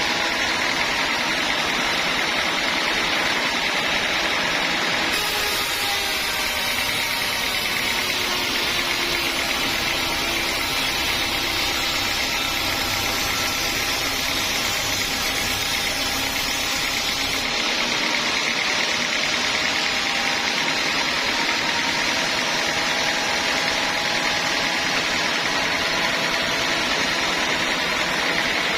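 Home-built band sawmill running steadily as it saws a teak log. From about five seconds in until about seventeen seconds the sound turns brighter and hissier, with faint wavering tones.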